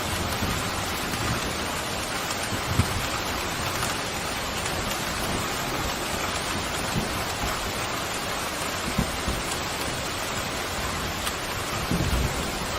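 Steady pouring rain, an even hiss, with a few brief low thumps scattered through it.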